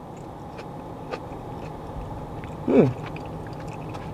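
A person chewing a mouthful of food, with faint wet mouth clicks, over a steady low hum inside a car. About three seconds in comes a short falling "mm" of enjoyment.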